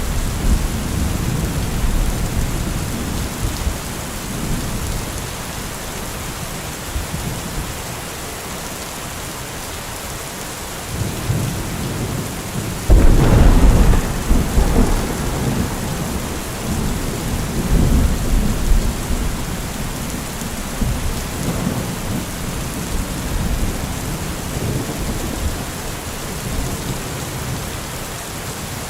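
Heavy rain falling steadily, with deep low rumbles swelling and fading. About halfway through a sudden loud crash rolls on for a few seconds, with smaller rumbles a few seconds later.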